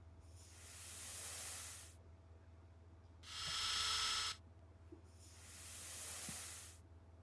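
Three bursts of hiss: two swell and fade over nearly two seconds each, and a shorter, louder one in the middle starts and stops abruptly.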